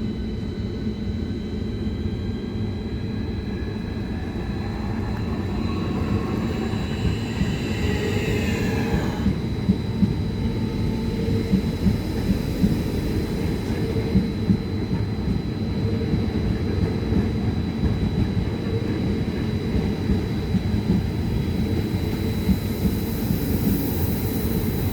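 A Class 465 Networker electric multiple unit pulling away. Its motor whine rises in pitch over a few seconds and cuts off, then the train runs on as a steady rumble with repeated sharp wheel clicks.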